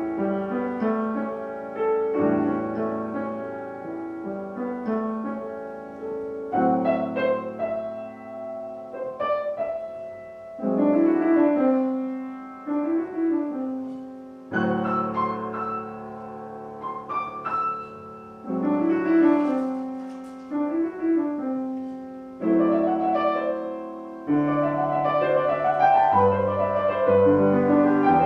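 Classical piano music with held bass notes under a flowing melody that carries small ornamental turns. It moves in phrases that start afresh every few seconds and swell, then ease off.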